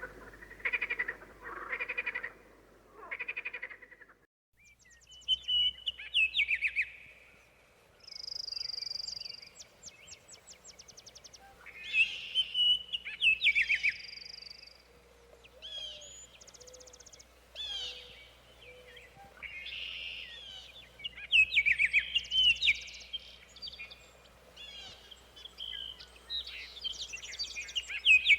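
Birds singing outdoors: varied chirps, rapid trills and whistled phrases, following a few seconds of rhythmic croaking, about one call a second, at the start.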